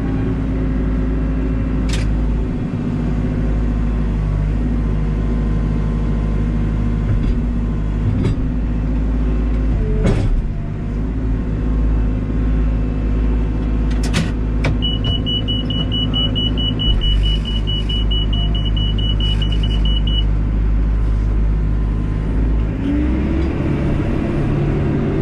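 Cat backhoe loader's diesel engine running steadily, with a few sharp clanks. A high electronic beep sounds for about five seconds midway, and near the end the engine revs up and back down.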